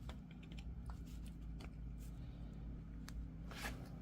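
Faint metal clicks and scrapes of a flathead screwdriver prying a universal-joint retaining clip out of a Jeep axle yoke: a few separate ticks spread through, the sharpest about three and a half seconds in, over a steady low hum.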